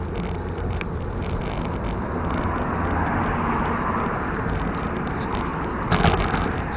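Steady rolling and wind noise of a mountain bike ride, with a short loud rattle or knock about six seconds in.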